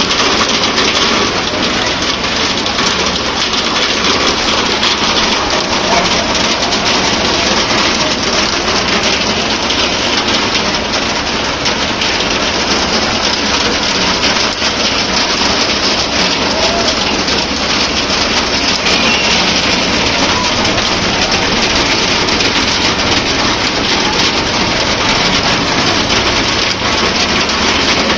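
Steady rain falling, a continuous even hiss of rain on surfaces.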